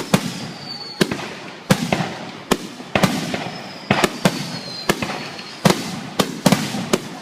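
Aerial fireworks shells bursting one after another in a rapid finale barrage, about two sharp bangs a second and quickening near the end, each followed by an echoing rumble.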